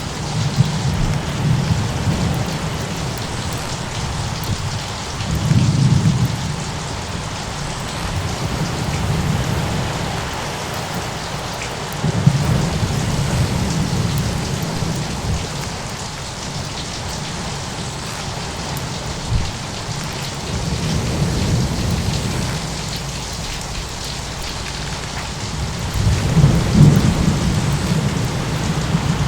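Thunderstorm ambience: a steady hiss of rain with low thunder rumbling in and fading away about five times.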